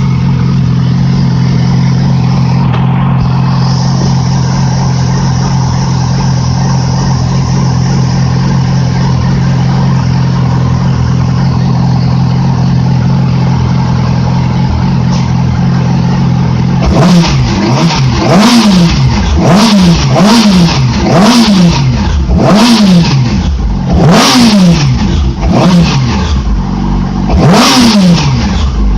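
2008 Yamaha R6R's four-cylinder engine idling steadily, then, about two-thirds of the way in, blipped repeatedly: a series of quick revs that rise and fall about once a second.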